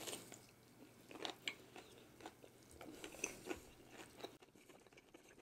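Faint crunching and chewing of a crispy-coated fried chicken wing being bitten into and eaten: a scatter of small, sharp crunches, thinning out after about four seconds.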